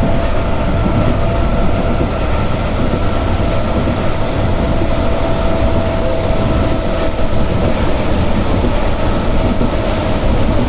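Passenger electric train running, heard from inside the carriage: a steady rumble of wheels on rail with a faint steady whine over it that fades about three quarters of the way through.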